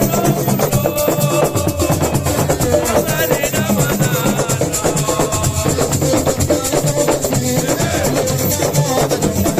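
Live percussion music: fast, steady strokes of drums and rattling shakers, with voices singing or calling over the beat.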